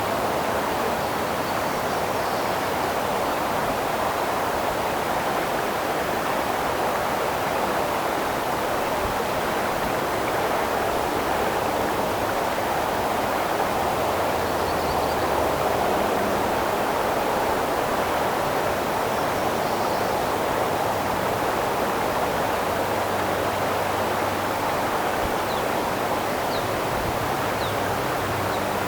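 Creek water flowing over rocks in a steady, even rush. A few faint bird chirps come in near the end.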